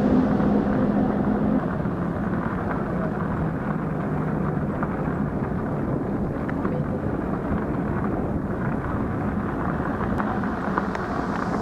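Steady wind rush and rumble on the microphone of a moving fat-tire electric bike, with a faint low hum for the first second or so.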